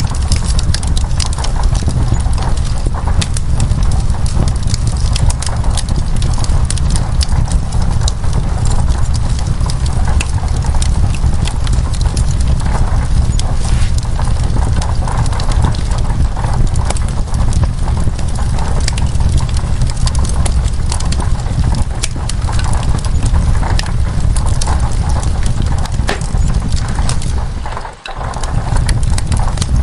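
Wood fire crackling in a fireplace: many sharp irregular pops and snaps over a steady low rushing rumble, with a brief drop in level near the end.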